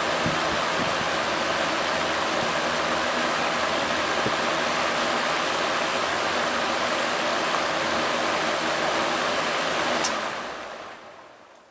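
Vintage Country Aire 14-inch box fan with a GE motor running, a steady rush of air with a faint motor hum. About ten seconds in there is a click, and the sound then dies away as the blades wind down.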